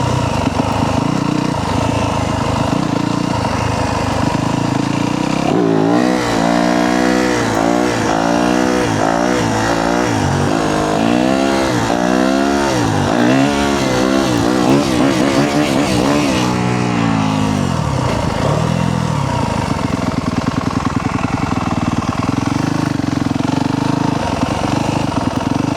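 Yamaha YZ250F's 250 cc single-cylinder four-stroke engine under throttle on a wheelie run. It holds a steady note, then revs up and down repeatedly for about ten seconds, its pitch rising and falling roughly once a second, before settling to a steadier, lower note.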